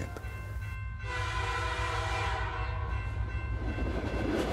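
Train whistle sounds once, a single held call about two seconds long, over the steady low rumble of a moving train.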